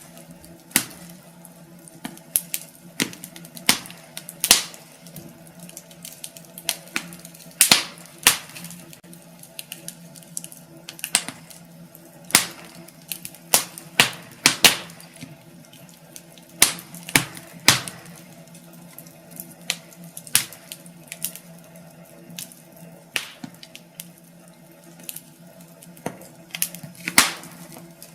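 Wood fire crackling in a fireplace: irregular sharp pops and snaps, several a second at times, over a low steady hum.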